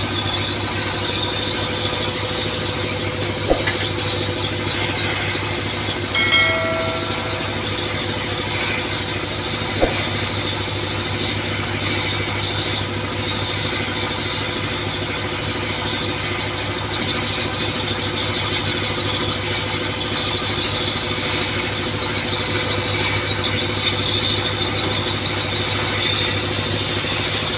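Shipboard machinery running steadily: a low hum layered with a constant high-pitched whine, with a few faint clicks.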